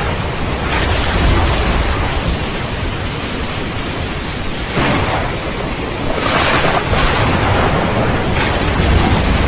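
Steady heavy rain with deep rolling thunder rumbling underneath, the rain hiss surging louder a few times, most around five and six seconds in.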